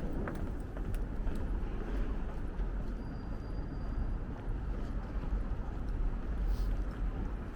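City street ambience: a steady low rumble of traffic, with a few sharp clicks in the first second or so.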